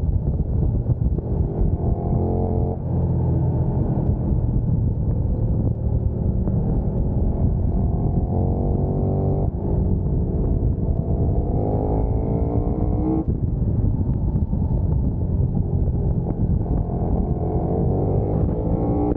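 Motorcycle engine accelerating hard in repeated pulls, its pitch climbing and then dropping abruptly at each gearchange, about four times. A heavy rush of wind on the microphone runs underneath.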